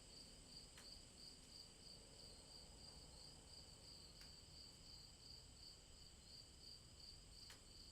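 Night insects trilling steadily and faintly in a fast, pulsing high-pitched chorus, with three single sharp drop-like clicks from raindrops.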